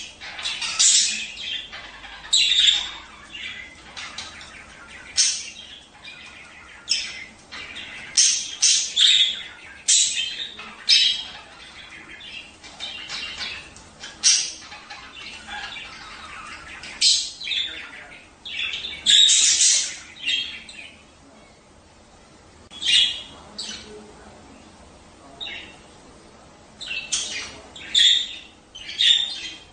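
Budgerigars chattering and squawking in short, irregular, high-pitched calls: the chatter budgie keepers play to pairs to prompt breeding. The calls thin out for a few seconds past the middle, then pick up again near the end.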